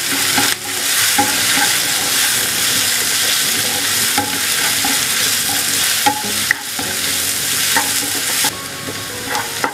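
Sliced onions with chilli and coriander powder sizzling in hot oil in a white-lined pan, stirred and scraped with a wooden spatula in repeated strokes while the spices fry off.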